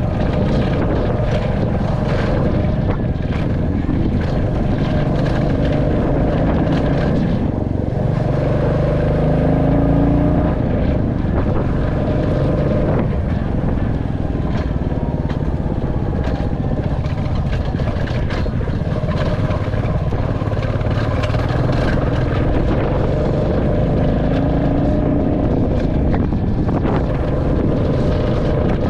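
Royal Enfield 350's single-cylinder engine running as the motorcycle rides along, heard from the rider's position with some wind on the microphone. The engine note rises twice as it revs, about a third of the way in and again near the end.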